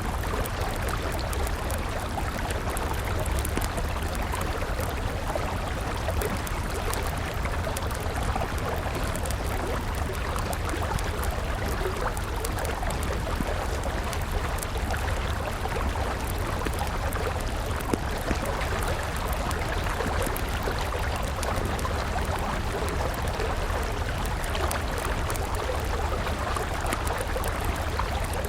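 River water flowing steadily, with a wood campfire crackling over it: many small pops throughout and a louder snap about eighteen seconds in.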